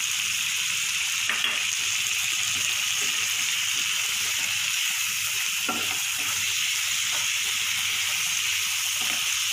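Diced potatoes and prawns frying in hot oil in a non-stick pan, a steady sizzle, turned now and then with a plastic spatula.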